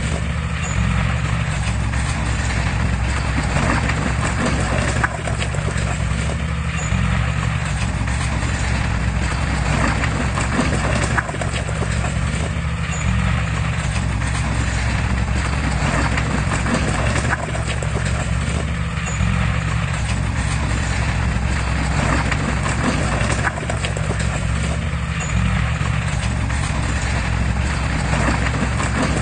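Heavy diesel machinery running steadily under load, with rapid metallic clanking typical of crawler tracks. The sound swells and eases in a cycle about every six seconds.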